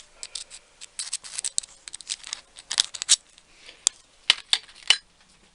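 Irregular light clicks and short scratchy scrapes of small metal tools or drill parts being handled, a few quick taps clustered near the end.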